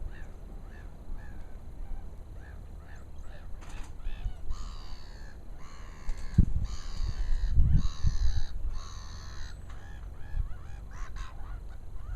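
Birds calling: a run of short, repeated chirps about twice a second, then five harsh calls of just under a second each, one after another, through the middle. Two low thuds come near the middle, the loudest sounds.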